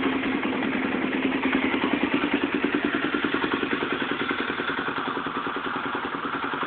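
2003 Honda TRX300EX ATV's single-cylinder four-stroke engine, through a Vance & Hines exhaust, idling steadily with an even, rapid putter shortly after a cold start.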